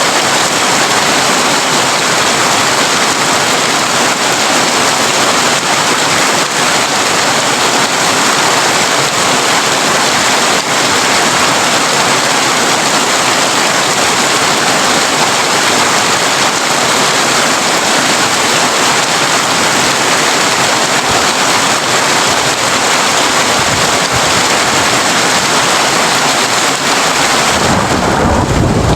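Heavy rain drumming steadily on a corrugated tin roof, a dense even hiss. Near the end the hiss thins and gives way to a deeper rumble.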